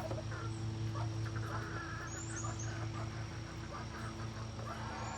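Domestic poultry calling at intervals over a steady low hum, with a few brief high chirps.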